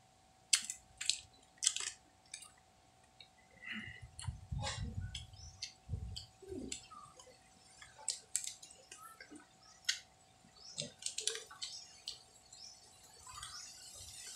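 A person eating ripe mango: wet chewing and lip smacks, heard as a scattered run of short, sharp clicks.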